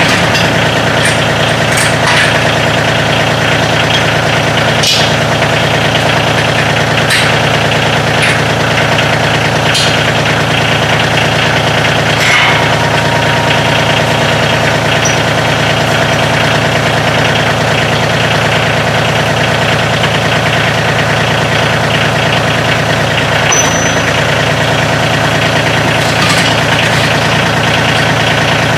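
Kioti CK2610 compact tractor's three-cylinder diesel engine running steadily, with a few light clicks and knocks through it.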